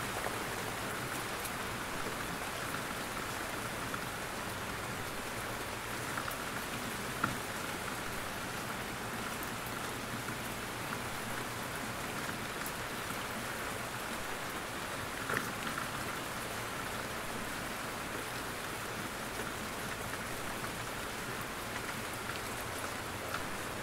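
Steady rain falling in a forest, drops pattering on leaves and the ground, with a few louder single drops from the trees about 7 and 15 seconds in.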